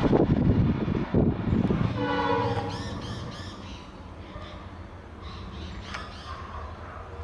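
Rumble of an express train's coaches running away along the track, falling away after about two seconds, with a short horn note around then. Birds then call repeatedly over the quiet track.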